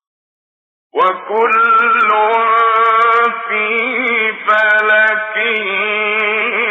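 Male voice reciting the Quran in the melodic mujawwad style, holding long drawn-out notes with ornamented, wavering pitch. It begins about a second in, after a moment of silence.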